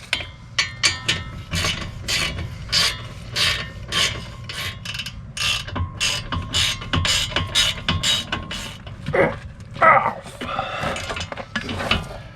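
Hand ratchet wrench clicking in repeated strokes, about two a second, as bolts are run down and tightened by hand.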